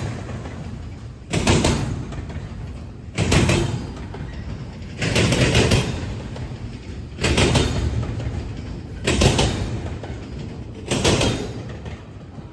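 A passing train's wheels clattering over the track in a steady rhythm, a loud bang about every two seconds, six times, each fading out before the next.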